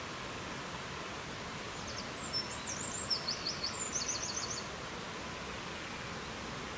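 A songbird sings one short high phrase of quick notes, ending in a fast trill, over a steady rushing noise of wind.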